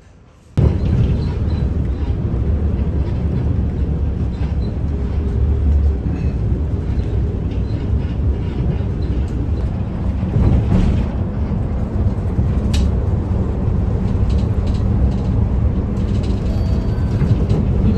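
Steady low rumble of a vehicle running, starting abruptly about half a second in and holding even to the end, with a few faint high clicks over it.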